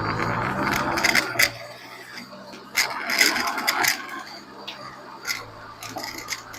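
Irregular clicking, rattling and scraping from the left rear wheel area of a 30-series Toyota Prius while driving, heard close up over a steady low road hum. The owner has not found the cause and wonders whether it is the 'karakara' rattle typical of an early hub bearing fault.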